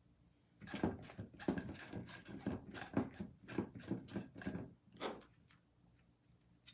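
Rope being wound around a form and pressed down by hand, a quick run of scratchy rubbing and rustling strokes that stops about five seconds in.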